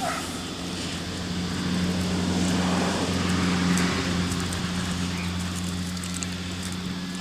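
A steady engine hum under a broad noise that grows a little louder about two seconds in and then eases off.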